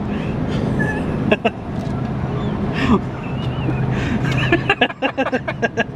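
Steady road and engine hum inside a moving car, with short vocal sounds and a quick run of voice-like bursts near the end.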